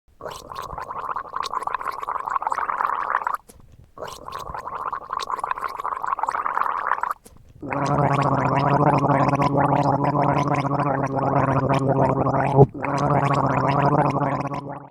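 A person gargling water in the throat: two bubbling gargles of about three seconds each, then a longer, louder gargle with the voice held on a steady low tone through the water, briefly broken near the end.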